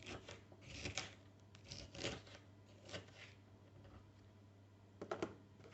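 Soft rustling and light clicks of food being handled and dropped into a lunchbox, a few separate touches, with two sharper clicks near the end.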